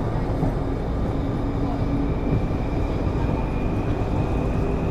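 A Taipei Metro C301 car with Bombardier IGBT-VVVF traction, heard from inside while running: a steady rumble of wheels on rail, with a faint steady high tone coming in about two seconds in.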